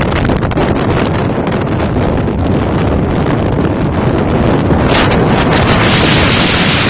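Strong wind blowing across the microphone, a loud, continuous rush of noise that turns brighter and hissier from about five seconds in.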